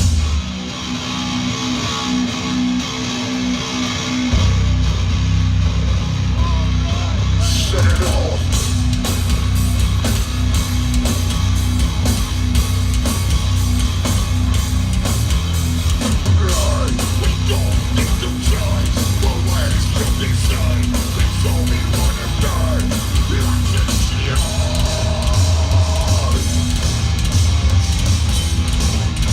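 Live heavy metal band playing loud: distorted electric guitar riffing on its own, then drums and bass guitar crash in together about four seconds in and the full band drives on.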